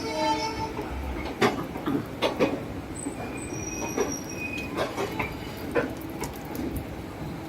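Train cars rolling along the track: wheels knock irregularly over rail joints, with a few short high wheel squeals over a steady rumble.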